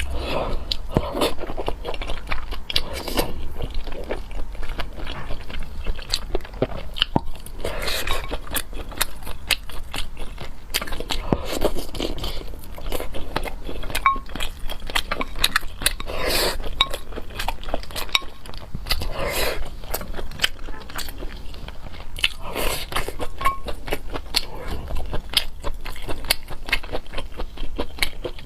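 A person chewing and crunching food close to the microphone, with frequent wet clicks and smacks of bites and mouth sounds, over a steady low hum.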